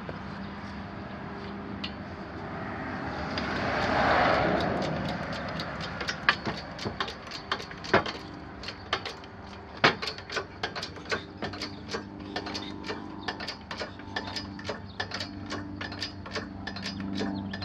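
Heavy-duty motorcycle lift raising the front of a subcompact tractor: a low steady hum, a swell of noise about four seconds in, then a run of sharp clicks that quickens toward the end. The clicks are the lift's safety-stop bars dropping over their blocks as it rises.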